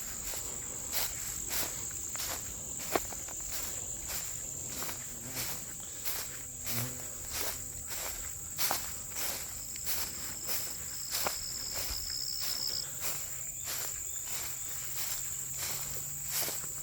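A steady high-pitched chorus of insects, with the walker's regular footsteps falling about one to two times a second.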